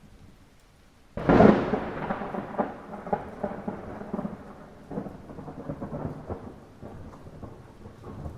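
Light rain falling steadily, then a sudden thunderclap about a second in that crackles and rumbles for several seconds as it fades.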